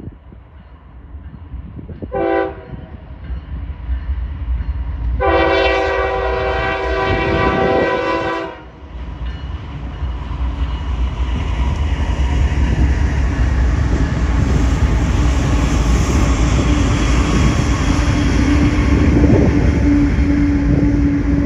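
BNSF diesel freight locomotives running mid-train sound their air horn, a short blast about two seconds in and then a long one of about three seconds. The locomotives and freight cars then pass with a heavy, steady rumble of engines and wheels on the rails.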